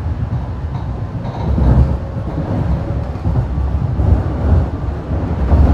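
Inside a BART Fleet of the Future rail car moving at speed: a steady low rumble of the wheels on the track, swelling briefly a few times.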